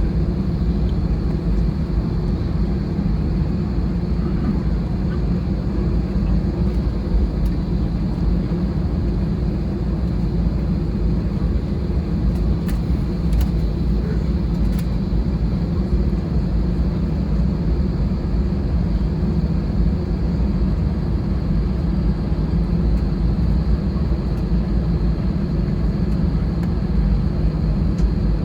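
Steady engine hum and rumble heard inside the passenger cabin of an Airbus A320-216, its CFM56 engines running evenly with no change in pitch.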